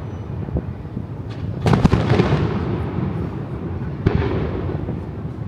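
Aerial fireworks bursting in a display: a rapid cluster of sharp bangs about two seconds in and another bang about four seconds in, over a continuous low rumble of echoing reports.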